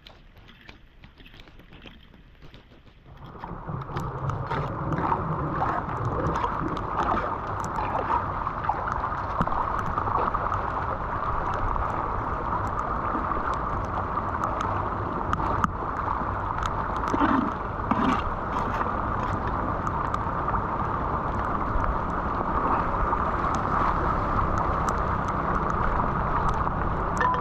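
Floodwater rushing steadily down a street storm drain, starting abruptly about three seconds in, with small splashes and clicks over it.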